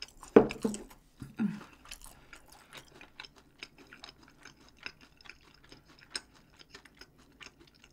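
A person chewing food close to the microphone: a steady run of small, wet mouth clicks, with two louder mouth sounds in the first second and a half.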